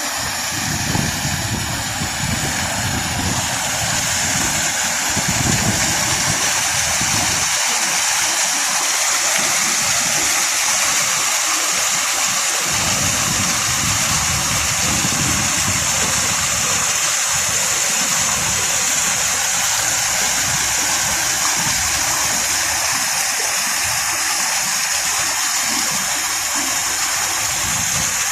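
Steady, loud rushing noise with an uneven low rumble underneath.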